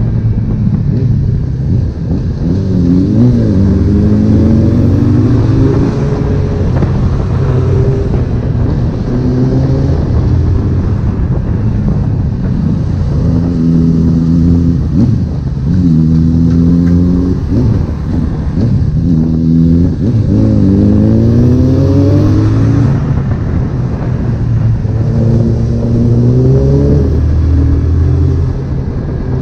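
Honda CB1000R inline-four engine pulling hard through the gears while riding, its pitch climbing and dropping back at each upshift in several runs of acceleration, with wind rushing past.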